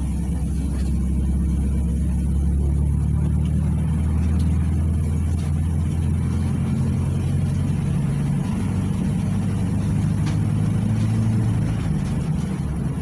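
PAZ 320402-05 city bus engine running under way, its pitch climbing as the bus accelerates, then dropping near the end as it eases off.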